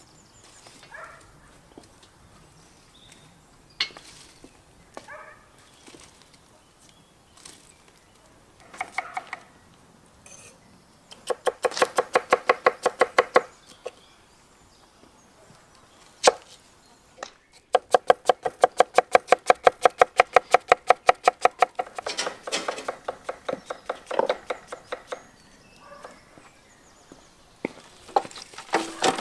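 A utensil clinking rapidly against a ringing metal bowl while stirring, in two quick bursts of many strikes, with scattered knocks and clatter of kitchenware around them.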